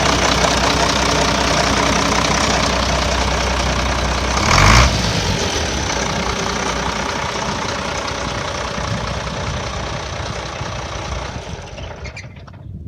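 International Harvester 966 tractor engine idling steadily, with a brief louder surge about four and a half seconds in. The sound fades away near the end.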